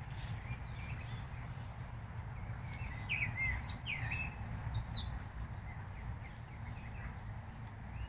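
A songbird calling: a quick run of chirps and downward-sliding whistles about three to five seconds in, over a steady low rumble.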